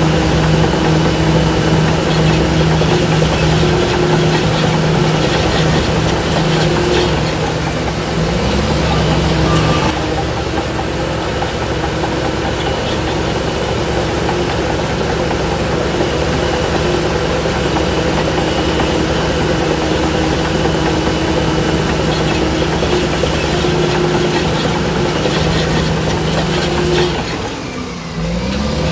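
Heavy diesel engine of earthmoving machinery running steadily under load. Its pitch rises briefly about eight seconds in, and again near the end after a short dip in loudness.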